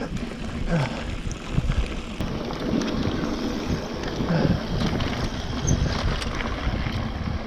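Mountain bike riding down a rough dirt trail: wind buffets the microphone while the tyres crunch over dirt and stones and the bike rattles over bumps, with a few short vocal sounds from the rider.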